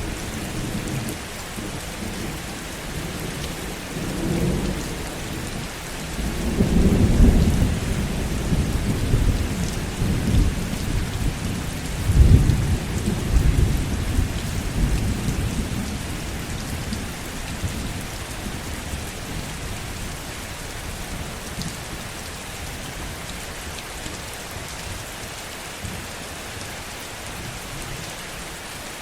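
Steady heavy rainfall with thunder rumbling low underneath, swelling loudest about seven and twelve seconds in, then dying away and leaving the rain alone for the second half.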